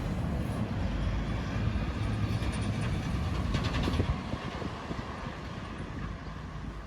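A heavy vehicle passing close by: a steady low rumble with rushing noise and a rapid clatter, fading away after about four seconds.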